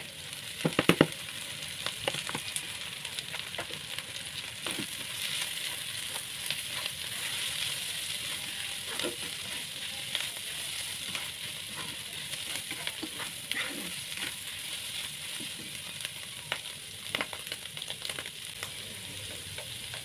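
Chopped intestines sizzling in hot oil in a pan, being stirred so the utensil scrapes and clicks against the pan. A quick run of loud knocks about a second in; the sizzle grows louder about five seconds in.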